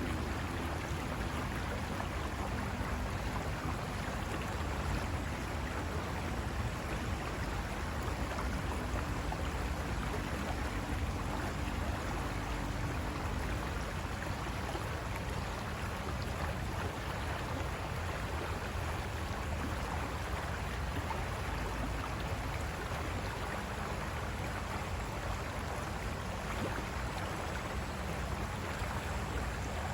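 River water rushing and splashing over rocks in a steady, unbroken flow. A faint low hum sits underneath for the first dozen seconds or so.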